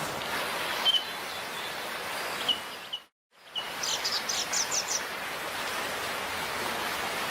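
Small birds chirping, with single calls and then a quick run of about six chirps near the middle, over a steady rush of flowing stream water.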